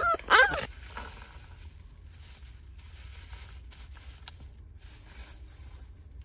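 A pet dog whines briefly and loudly at the start, then faint rustling and scraping of movement and handling follows.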